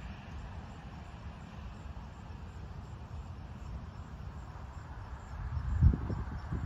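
Rainy outdoor ambience: a steady hiss with a low rumble of wind on the microphone and faint, evenly spaced insect chirps. A loud low thump comes near the end.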